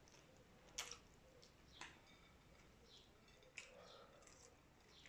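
Near silence with faint eating sounds: a few soft clicks and mouth smacks while chewing.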